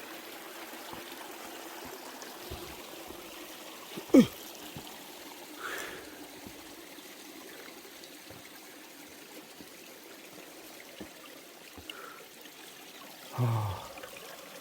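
Mountain stream trickling steadily. A few short sharp sounds cut through it, the loudest about four seconds in and another near the end.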